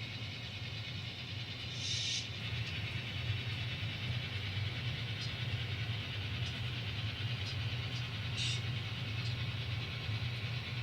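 N scale model train running along the track: a steady low hum with a few faint clicks, and two brief high hisses, about two seconds in and near the end.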